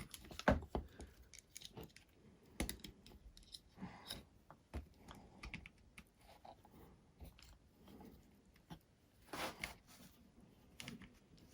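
Faint, irregular clicks and taps of small parts and a screwdriver being handled while screws are fitted to a drone's leg mount.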